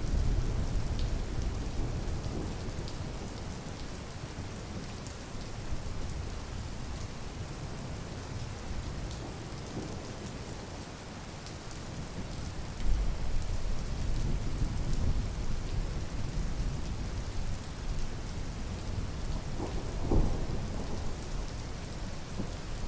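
Steady rain falling, with deep low rumbling swelling at the start and again from about halfway through.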